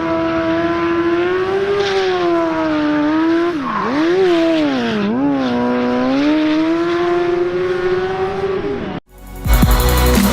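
Engine held at high revs, its pitch dipping and rising again twice near the middle. It cuts off abruptly near the end, and electronic music with a heavy beat starts.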